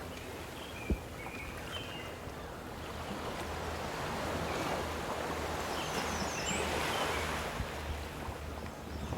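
Lake waves washing onto the shore, a steady rush of water that swells and eases.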